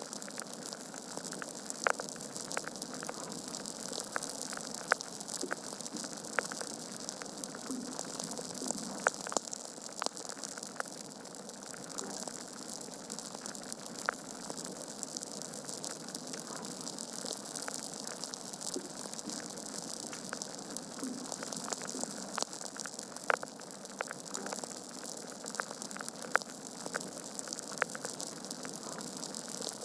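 Wood fire crackling in a fireplace: a steady hiss with irregular sharp pops and snaps from the burning logs.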